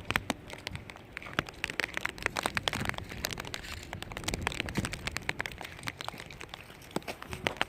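Rain pattering close to the microphone: dense, irregular sharp ticks of drops striking rain gear, with crinkly rustling.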